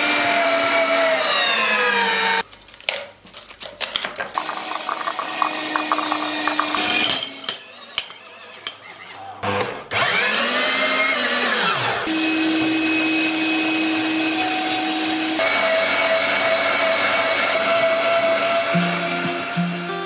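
Electric meat grinder motor running in spells, its hum winding down near the start, speeding up and dying away again around the middle, and holding steady for the last several seconds. Between the spells there is a stretch of clicking and clattering.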